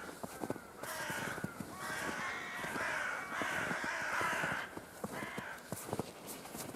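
Footsteps crunching in snow at a walking pace, with a run of crows cawing over them for a few seconds starting about a second in.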